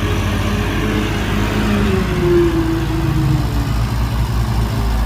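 Heavy diesel engine running under load, its pitch rising and then falling as it is revved.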